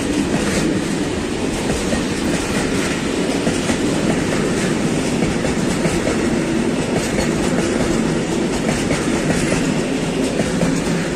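Open-top freight wagons rolling past close by, their wheels clattering steadily over the rail joints. The noise starts to drop off at the very end as the last wagon goes by.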